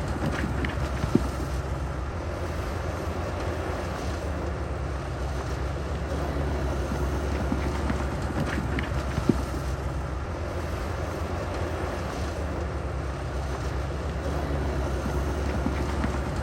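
Heavy diesel earthmoving machinery running steadily, a constant low engine drone, with two sharp knocks, about a second in and about nine seconds in.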